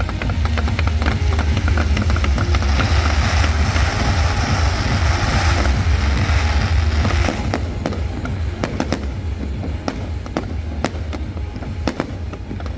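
Fireworks display: a continuous low rumble of bursting shells with a hissing crackle in the middle, then from about eight seconds in, many sharp pops and cracks.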